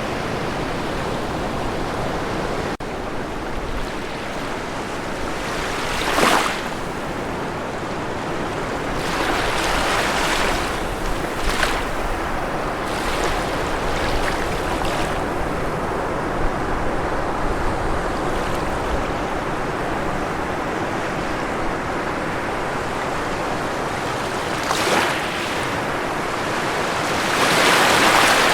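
Ocean waves washing onto a shore: a steady rush of surf, with individual waves breaking more loudly about six seconds in, around ten to twelve seconds, and again near the end.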